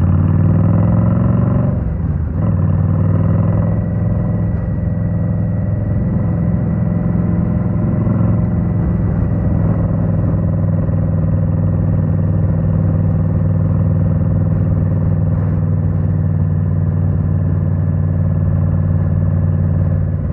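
2023 Indian Scout Rogue's 69 cu-in V-twin running through Rinehart slip-on exhausts. The engine note drops about two seconds in, then holds steady.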